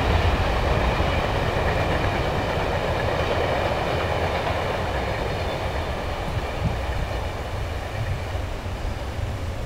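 Amtrak passenger train running past on the rails, a steady rumble that slowly fades as it goes by.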